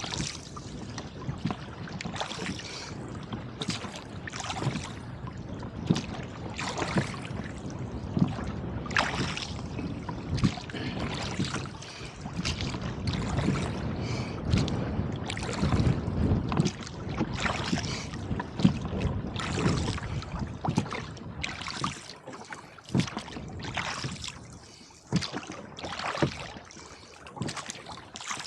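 Rowboat under way in gusty wind: irregular splashing and slapping of water against the hull and oars over a steady rush of wind noise.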